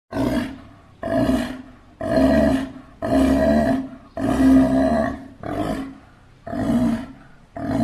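Sea lion roaring repeatedly, a run of about eight hoarse calls, one roughly every second, the last drawn out longer.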